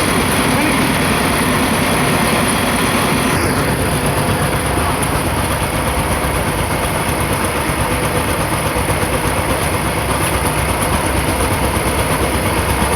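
A motor vehicle engine running steadily, with a constant low rumble and hiss.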